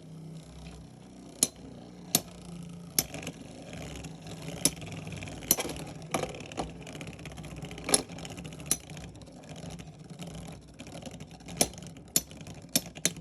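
Two Beyblade X tops, Cobalt Dragoon and Dran Buster, spinning in a plastic stadium: a steady whirring hum broken by sharp clacks as they strike each other, about a dozen hits, coming faster near the end.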